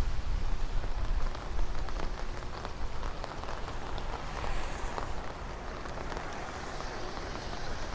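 Rain falling on the street, an even hiss dotted with many small drop ticks. A low rumble fades out over the first second or so.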